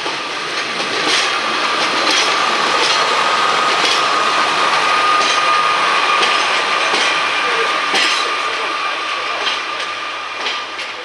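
A train running past on the rails, its wheels clicking over the rail joints, with a steady high squeal from the wheels on the track. It builds over the first couple of seconds and eases off near the end.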